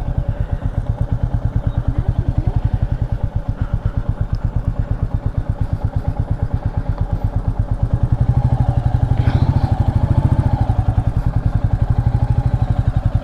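Royal Enfield Meteor 350's single-cylinder engine running at low revs, a steady, even beat of exhaust pulses several times a second, getting a little louder for a few seconds from about eight seconds in.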